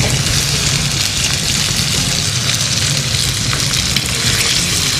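Cubed potatoes sizzling in hot oil in a frying pan as they are stirred with a spoon, a steady hiss with a low hum underneath.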